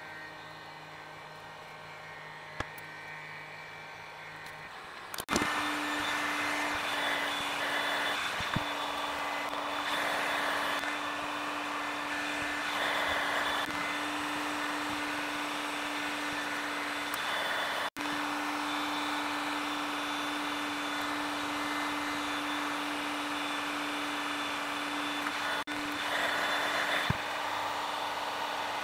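Hot air gun switched on about five seconds in, then running with a steady blowing hiss and a constant hum, set to around 100 °C. The sound drops out briefly about 18 seconds in, and there are a few light clicks.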